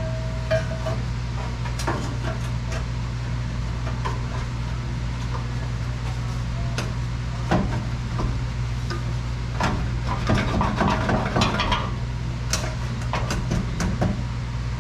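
Scattered metal clinks, taps and scrapes as an exhaust pipe is slipped onto its hangers and shifted into place, busiest about two thirds of the way through, over a steady low hum.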